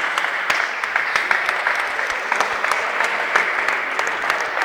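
Crowd applauding, many separate hand claps over a steady wash of clapping.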